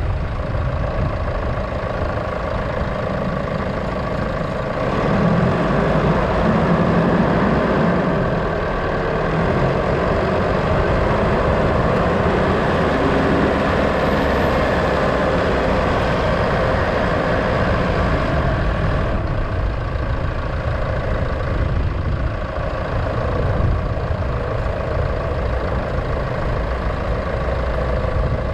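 A motor vehicle's engine running with road and traffic noise, getting a little louder about five seconds in.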